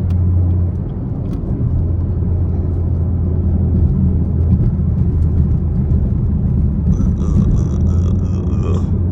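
Camaro SS V8 engine and exhaust heard from inside the cabin while cruising: a steady low drone that eases slightly about a second in and then holds. The drive mode is in Tour, not Sport.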